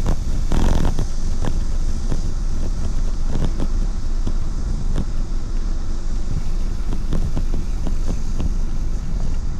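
Steady wind and road rumble from riding a bicycle, with frequent small clicks and rattles. There is a brief louder rush about half a second in.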